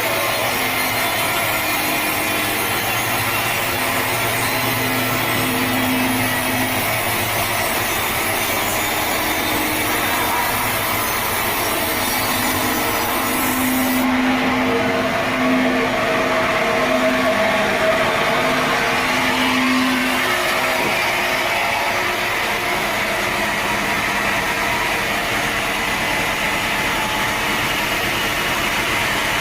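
Sawmill saw running through a teak log, a steady sawing noise with a wavering hum in it; the sound changes, losing some of its hiss, about halfway through.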